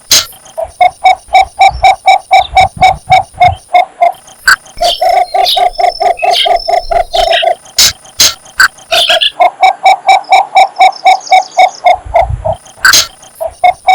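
Male cinnamon bittern giving its mate-attracting call: a fast series of even, low notes, about four to five a second, in three long runs broken by short pauses. A few sharp clicks fall between the runs.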